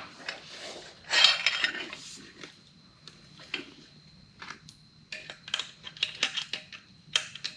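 Metal exhaust parts clinking and scraping as an aftermarket motorcycle exhaust pipe is worked into place by hand. There is a scrape about a second in, then scattered light clicks and taps.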